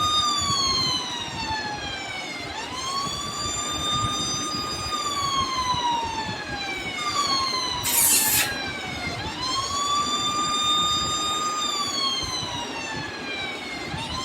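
Electronic police-style siren wailing in slow cycles: each time the pitch rises quickly, holds high, then glides down over a couple of seconds, about three times. A brief hiss breaks in about eight seconds in.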